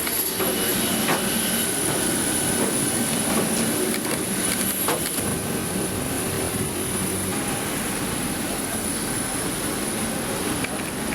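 Steady cabin noise inside a Boeing 737-800 just after landing: an even hum and hiss from the engines and air system, with a steady high whine and a few sharp clicks in the first five seconds.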